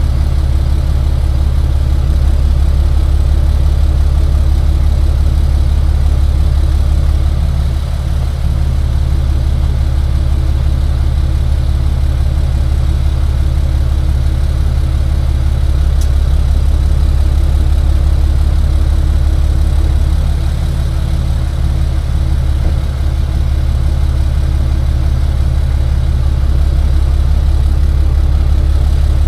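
Tow truck's engine running steadily with a deep, even drone, easing off slightly twice. A single sharp click about halfway through.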